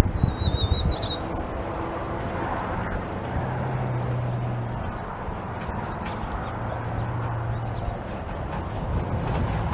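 A songbird sings a short warbling phrase in the first second, followed by a brief higher note and a few faint chirps later. Underneath is steady outdoor background noise, with a low drone twice in the middle and a few low thumps at the start.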